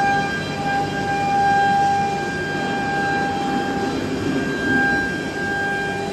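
Woodworking CNC router running, its 5.5 kW spindle giving a steady high whine over the noisy rumble of the machine and its 5.5 kW vacuum pump. The whine briefly weakens about four seconds in.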